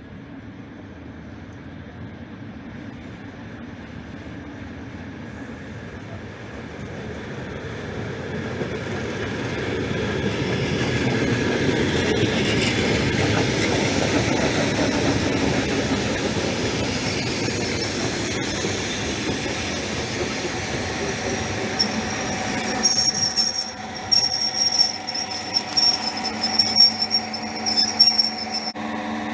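Suburban electric train drawing closer on the rails, its running noise growing steadily louder, then a thin high-pitched squeal from the wheels sets in about three-quarters of the way through, with sharp irregular peaks near the end.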